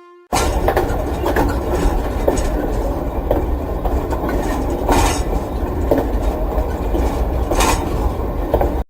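A train running on rails: a steady heavy rumble with occasional sharp clacks of the wheels over rail joints. It starts abruptly just after the beginning and cuts off suddenly near the end.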